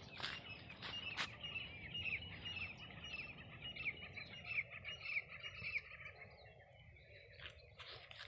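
Small birds chirping, a rapid run of short high notes that thins out after about six seconds, with a few sharp clicks and a low rumble of outdoor noise underneath.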